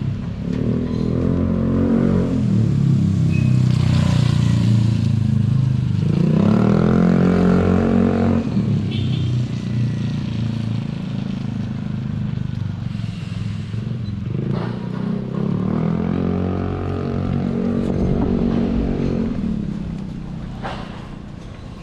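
Motor vehicles driving past close by, their engines rising and falling in pitch as they go. The loudest passes come about six to eight seconds in and again around seventeen to nineteen seconds in, and the sound fades near the end.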